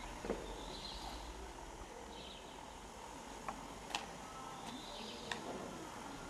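Birds chirping over a steady outdoor background hiss, with a few sharp clicks.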